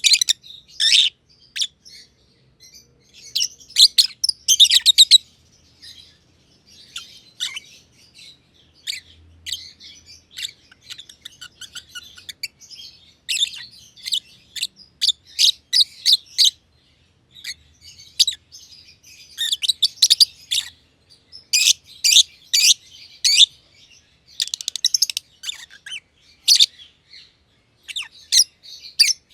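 Black-masked lovebirds chirping: rapid clusters of shrill, high chirps with short pauses between them.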